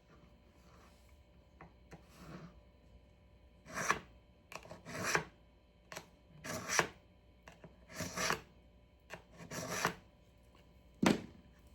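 A knife blade drawn through a handheld AccuSharp carbide sharpener: a series of short scraping strokes about every one and a half seconds, then a short sharp click near the end.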